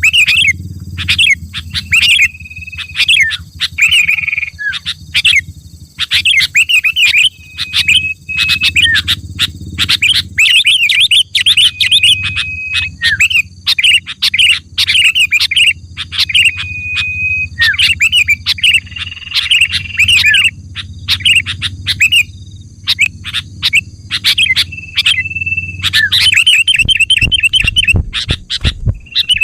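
Sooty-headed bulbul singing and calling in a dense, unbroken run of quick chirps and short whistled notes, over a steady low hum. Near the end a fast stuttering series of repeated notes.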